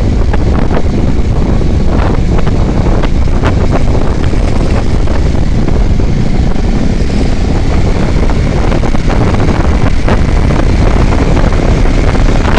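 Vehicle running along a highway at speed, with heavy wind buffeting the microphone over a steady low rumble and scattered knocks.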